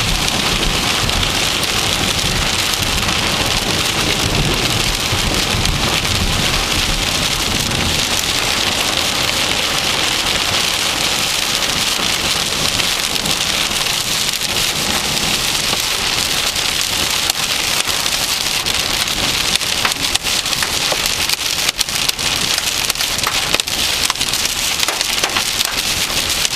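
Heavy thunderstorm rain pelting a moving vehicle, a dense steady hiss. There is a low rumble in the first few seconds, and sharper individual hits of drops grow more frequent in the last few seconds.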